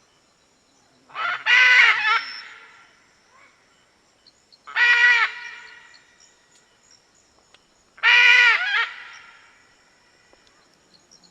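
A large bird giving three loud, harsh, pitched calls, each about a second long, roughly three seconds apart.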